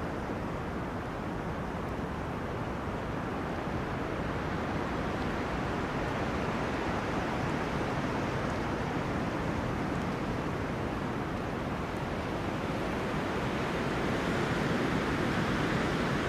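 Wind blowing through forest trees, a steady rushing that swells a little near the end.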